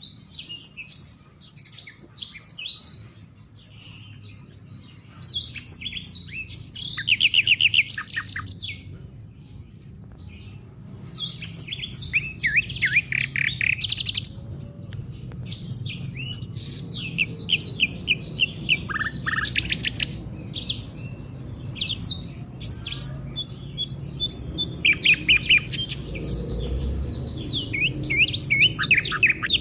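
African songbird song: rapid runs of high, fast-sliding chirps in bursts of a few seconds, with short pauses between phrases.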